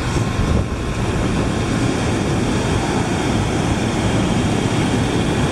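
Steady rushing of ocean surf with wind buffeting the microphone.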